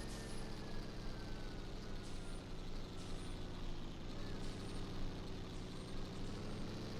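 Truck engine running with a steady low rumble, with several short high-pitched hisses over it.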